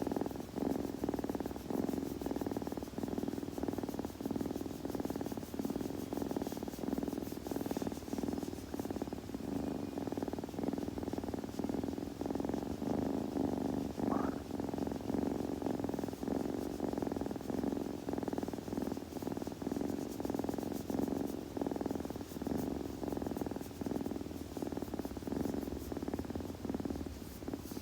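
Kitten purring, a continuous pulsing rumble. About halfway through there is a brief faint rising note.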